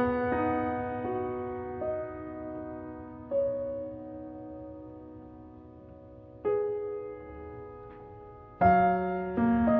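Background piano music: slow, sparse notes and chords left to ring and fade, picking up into a busier phrase near the end.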